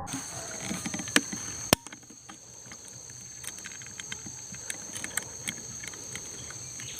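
Insects, crickets or similar, shrilling steadily at a high pitch, with a few sharp clicks, the loudest just under two seconds in.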